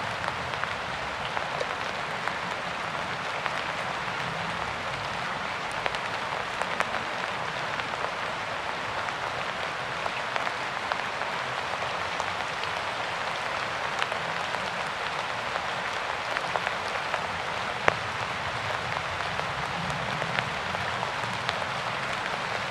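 Steady rain falling, an even hiss with the occasional sharper tap of a single drop.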